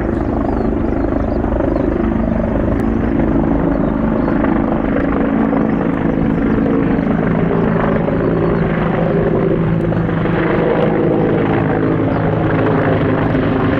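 Sikorsky CH-53K King Stallion heavy-lift helicopter running loud and steady: a deep rotor rumble with a steady turbine hum over it.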